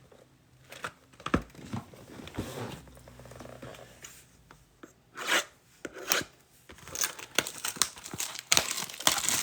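Plastic wrapping on a box of Panini Rookies and Stars football cards being torn and crinkled open by hand. There are scattered rustles and clicks at first, then denser crinkling near the end.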